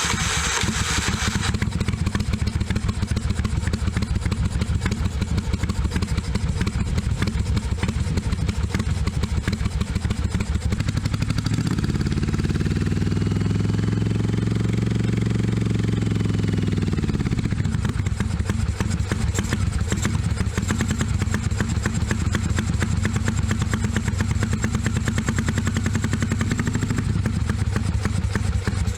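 1982 Yamaha Virago 750's V-twin engine running at a steady idle on carburettors the owner calls really bad, revved up once in the middle and settling back down to idle.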